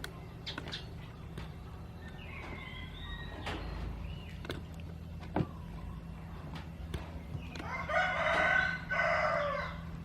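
A rooster crowing near the end, one crow in two drawn-out parts, the loudest sound here. A fainter gliding call comes about two seconds in, and there are a few scattered clicks over a steady low hum.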